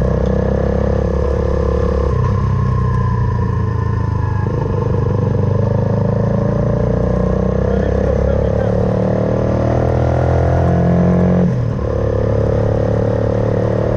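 Suzuki Van Van 125's single-cylinder four-stroke engine running under way through an aftermarket full exhaust. The engine note shifts about two seconds in, climbs steadily over several seconds, then drops sharply near the end and settles again.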